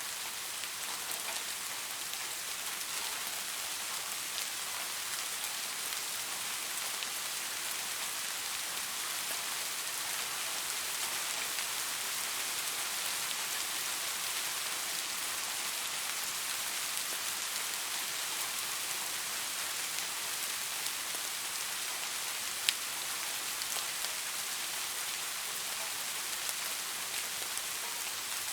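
Steady rain falling, an even hiss of many drops pattering on surfaces, with one sharp louder tick of a single drop about three-quarters of the way through.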